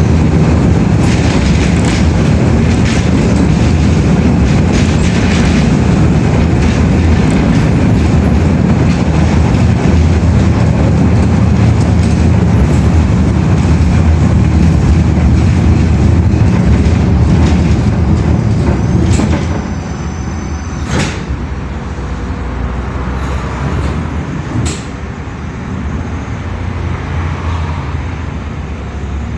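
Loud, steady low rumble of a heavy vehicle running, which drops away sharply about two-thirds of the way through. After that, a few sharp clicks stand out over a quieter rumble.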